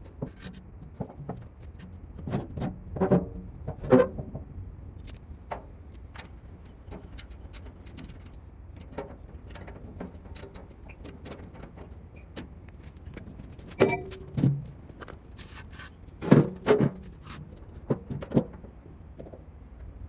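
Workshop restoration work: irregular knocks, clanks and rattles of metal tools and parts being handled, over a low steady hum.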